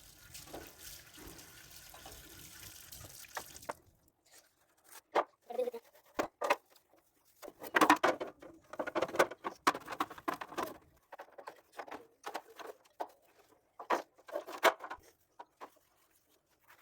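Tap water running into a sink, cutting off abruptly about four seconds in. Then scattered knocks and short bouts of splashing as plastic fridge boxes are washed by hand.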